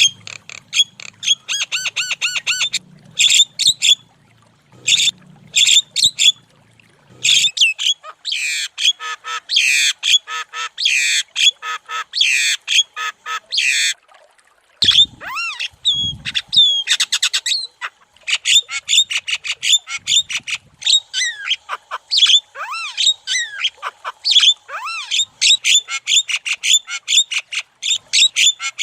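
Javan myna (jalak kebo) singing loudly: a long run of fast repeated chattering notes mixed with short whistled glides, in quick bursts. A couple of low thuds come about halfway through.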